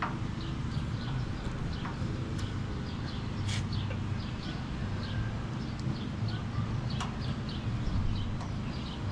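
Small birds chirping over and over against a steady low hum, with a few sharp clicks, one about three and a half seconds in and another about seven seconds in.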